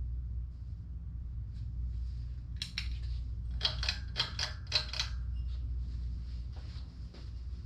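Harbor Breeze Classic Style 52" ceiling fan running with a steady low hum. A quick run of about six sharp clicks comes near the middle.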